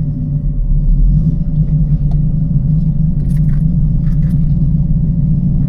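TVR Chimaera's 4650 cc Rover V8 with race cam running with a steady, deep burble, swelling slightly about a second in. A few faint clicks sound about halfway through.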